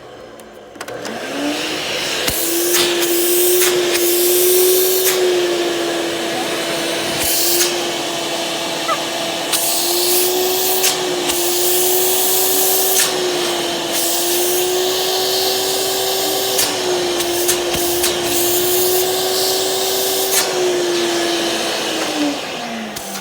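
Hoover Celebrity Q5 canister vacuum motor starting up about a second in, running steadily with a hum and rushing airflow that swells and drops several times, then switched off and spinning down with a falling pitch near the end.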